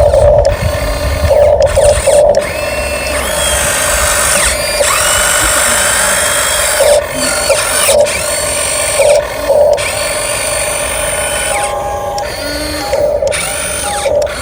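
Radio-controlled dump truck's small electric drive motor and gearbox whining, the pitch rising and falling repeatedly as the truck speeds up and slows, broken by several short gaps.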